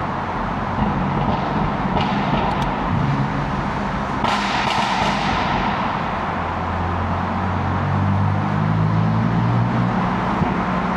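BMW F80 M3's twin-turbo inline-six running at low speed in city traffic, its revs rising near the end. A sudden rush of noise about four seconds in fades over a second or so.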